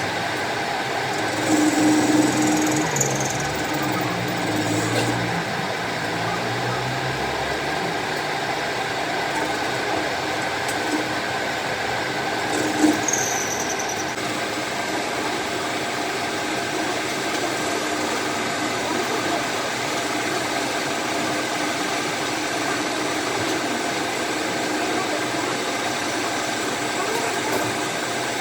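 Workshop machinery running steadily with a constant hum. It grows louder and deeper for a few seconds near the start, and there is a single sharp knock about 13 seconds in.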